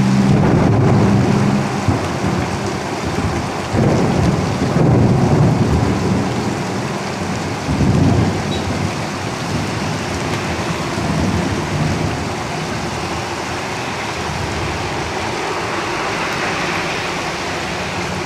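Heavy rain drumming steadily on a tin roof. A vehicle engine hum fades out in the first couple of seconds. Low rumbles swell about four and eight seconds in, then die away.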